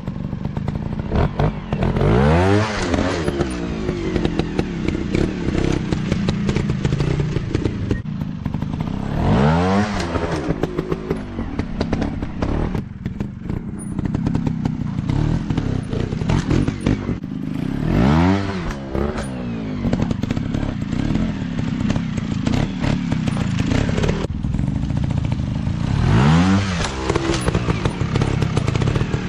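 Dirt bike engines running, with a bike revving up and dropping back four times, roughly eight seconds apart, over the steady running of other engines.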